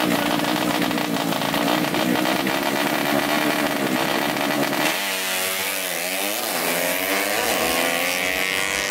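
Engine of a drag-race-tuned 130cc Yamaha Jupiter underbone motorcycle running at high revs through a JRM exhaust. The note holds steady, then shifts and sweeps about five seconds in.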